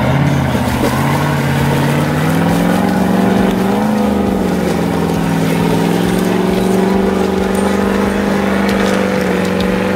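Land Rover Discovery's engine revving hard under load as the four-wheel-drive churns forward through deep snow. The pitch climbs over the first few seconds, dips briefly, then rises again and holds steady at high revs.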